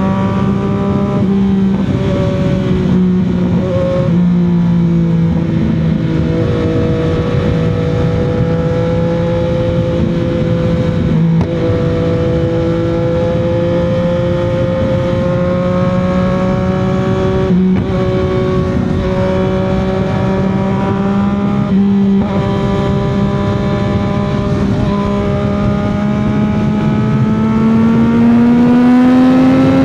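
CFMOTO 675's inline three-cylinder engine at a steady highway cruise, its exhaust note holding an even pitch with a few brief dips. The note climbs near the end as the bike accelerates. Wind and road rush run underneath.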